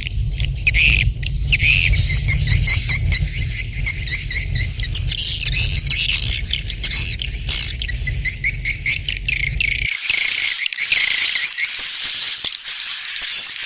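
Recorded swiftlet calls: a dense, continuous chorus of high chittering twitters from edible-nest swiftlets, the breeding-season call used to draw swiftlets to roost and nest. A low steady hum runs underneath and cuts off about ten seconds in.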